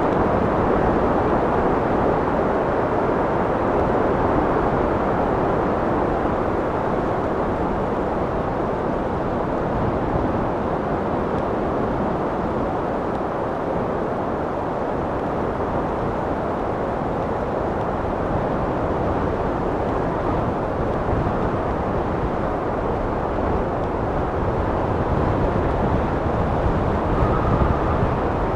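Steady wind blowing, a dense rushing noise with a low gusty rumble that swells slightly near the end.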